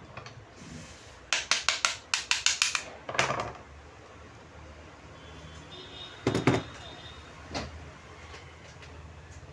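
Sharp clicks and knocks from hands working on a car power window regulator as its cable is fitted: a quick run of about ten clicks over a second and a half, a short rustle, then a single louder knock and a light tick.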